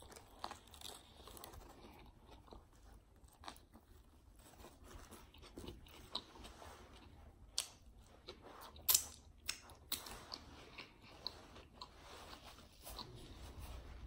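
Close-up chewing of a Subway spicy Italian sub: faint wet mouth smacks and small crunches, with a few sharper smacks about seven and a half and nine seconds in.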